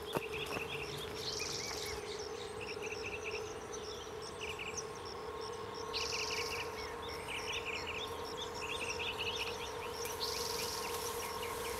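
Forest ambience: songbirds chirping in short repeated trills, with a few louder bird calls, over a steady hum.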